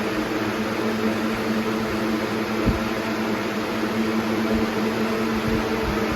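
Air King 9723 box fan running on high: a steady rush of air with a low, even hum underneath. The owner says it sounds like a turboprop.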